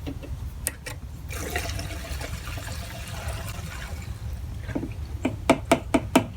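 Gasoline being poured into a lawn mower's fuel tank, a trickling fill lasting a few seconds. Near the end comes a quick run of sharp clicks.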